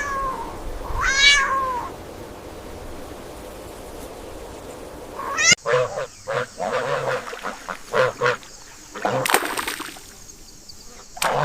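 Animal calls: two drawn-out calls that fall in pitch, then, after an abrupt cut about five and a half seconds in, a quick run of short calls.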